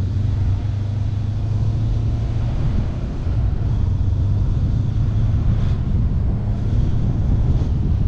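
Honda CBR400R's parallel-twin engine running steadily under way, heard from a camera mounted on the bike.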